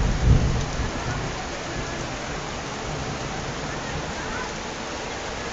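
Heavy rain falling steadily, with a low thunder rumble dying away in the first half second.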